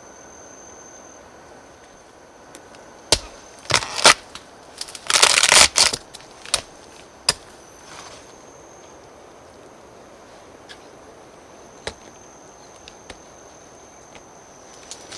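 A run of sharp cracks and crunches, densest about five seconds in, then a few isolated snaps, like dry wood or brush being broken. Under them runs a steady high-pitched insect drone.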